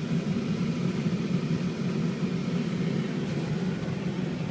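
Steady low rumble of a work truck driving along, engine and tyre noise heard from inside the cab.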